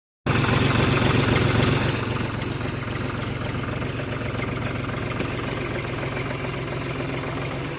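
John Deere tractor's diesel engine running steadily. It is louder for the first two seconds, then settles to a steady lower level.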